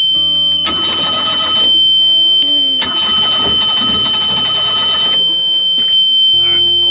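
Boat diesel engine's oil pressure alarm sounding a steady high beep, with the starter cranking the engine twice, briefly and then for about two seconds, without it catching. The engine is cold and has no glow plugs, and after a fuel filter change the crew reckon there is air in the fuel.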